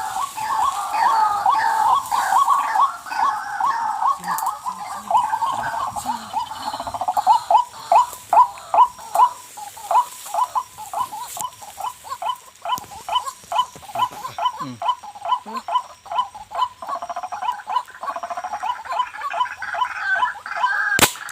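White-breasted waterhen (kuruwak) calling: a long, loud series of harsh repeated notes, about four a second, with one sharp click near the end.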